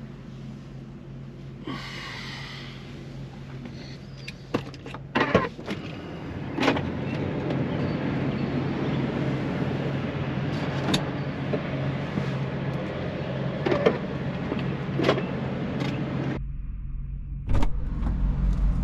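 Minivan engine running with a steady low hum, with scattered clicks and knocks over it. The sound gets fuller about a third of the way in and changes abruptly to a deeper rumble near the end.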